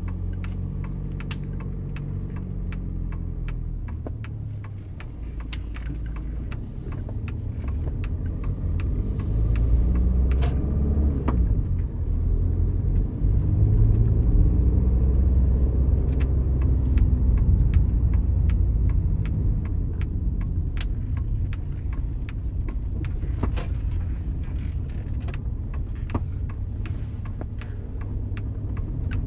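VW Passat running, a low engine and road rumble whose pitch bends up and down and grows louder from about eight seconds in. Scattered, irregular light clicks and knocks sound over it.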